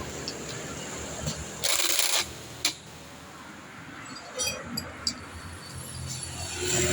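Small metal tools and parts clinking and clicking as they are handled, a few separate clicks apart from each other, with a short burst of noise about two seconds in.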